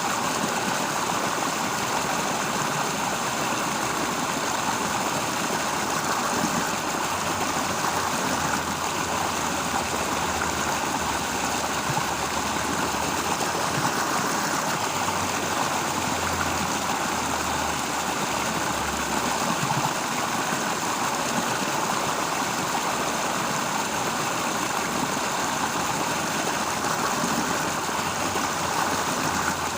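Flowing water, a steady even rush without breaks.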